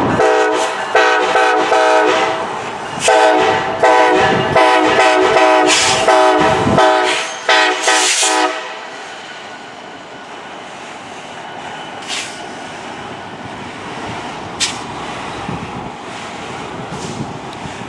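Locomotive air horn sounding a long multi-note chord, with a short break about three seconds in, over clicking from the train. The horn cuts off about eight and a half seconds in, leaving a steady quieter rumble of the train with a few sharp clanks.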